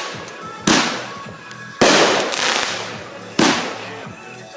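Fireworks going off: three sudden loud bangs about one to one and a half seconds apart, each trailing off in a crackling hiss.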